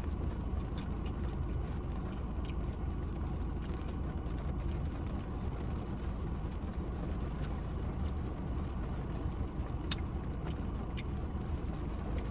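Steady low rumble with the even hiss of heavy rain, and a few sharp clicks of eating and packaging, one about ten seconds in being the loudest.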